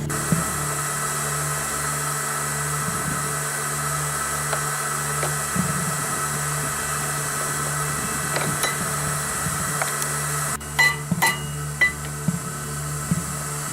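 A small electric motor running steadily, with scattered light clicks and a few sharp metallic knocks near the end.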